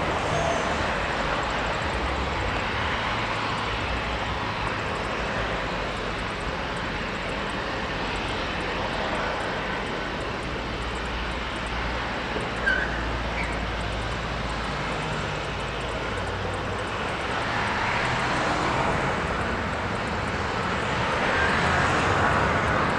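Jet aircraft engines running, a steady rush of noise that swells near the end, with a short sharp chirp about halfway through.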